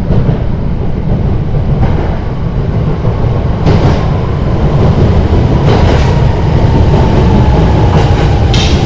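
Electric train running into a tunnel platform, its heavy rumble echoing off the tunnel walls, with several wheel clacks over rail joints. From about halfway, a faint tone slowly falls in pitch as the train slows to stop.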